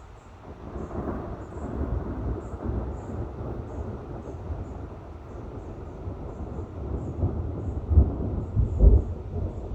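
Thunder rumbling: a low rolling rumble builds about half a second in, carries on unevenly and swells twice near the end, with faint insect chirping high above it.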